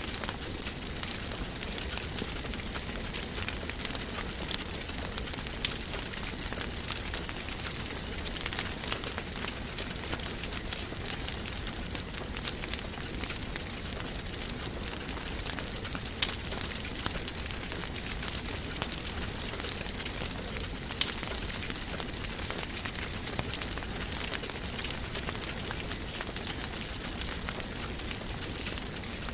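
Wood fire crackling in a fireplace: a steady hiss full of small ticks, with a few sharper pops standing out.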